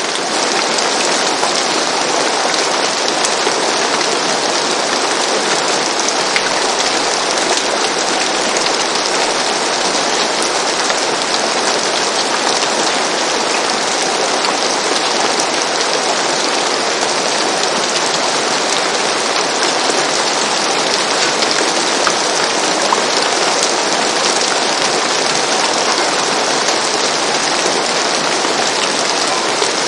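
Steady rain falling on a roof, an even hiss of countless drops with fine ticks of individual drops.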